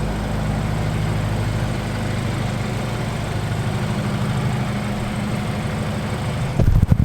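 BMW 328i engine running at a steady idle, with an even low hum.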